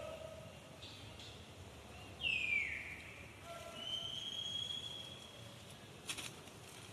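Two high-pitched animal calls. A loud squeal slides down in pitch about two seconds in, then a longer, steadier whistling call follows. A couple of sharp clicks come near the end.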